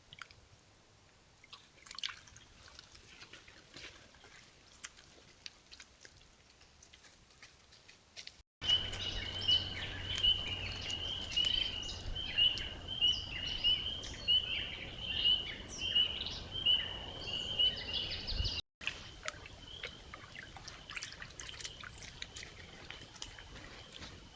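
Trail-camera audio by a small stream: faint trickling and splashing water with scattered small ticks. A louder middle stretch carries a run of short, high animal chirps repeated about twice a second over a low steady hum.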